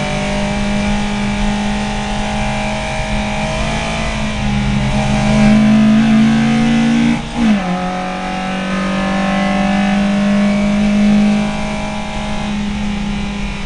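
VW Lupo race car's engine heard from inside the cabin, pulling with the revs climbing slowly. About seven seconds in the pitch drops sharply at an upshift, then the revs climb again before the engine eases off near the end.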